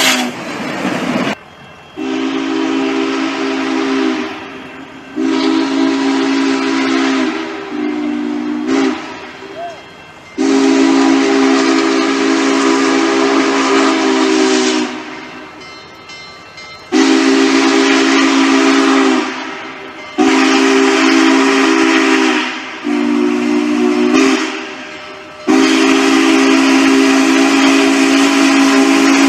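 Steam locomotive chime whistle sounding a series of about seven blasts of varied length, the longest about four seconds, several notes held together as a chord. Steam hisses between the blasts.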